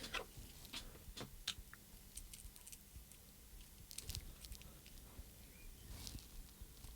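Faint, scattered light clicks and taps from small parts of a radio-control transmitter being handled during reassembly.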